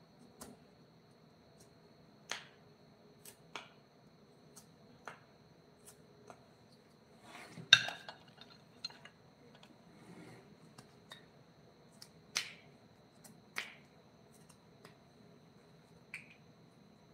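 Irregularly spaced sharp clicks and taps, with one louder knock about halfway through, over a faint steady high-pitched whine.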